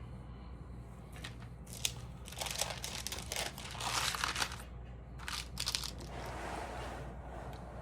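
Stamp pages or sleeves being handled, crinkling in a few bursts through the middle, the loudest a bit past halfway.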